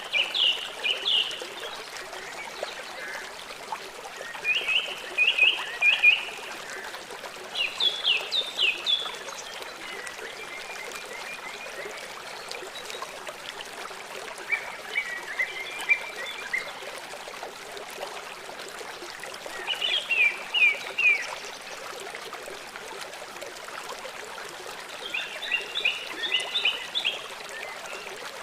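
A small songbird repeats short phrases of quick, high chirping notes every few seconds, each phrase about a second long. Behind it runs a steady rush of running water.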